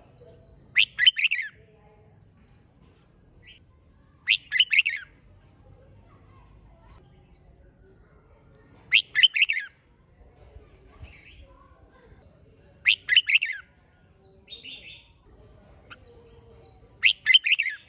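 Red-whiskered bulbul singing: five short, loud warbled phrases about every four seconds, with fainter chirps from other birds in between.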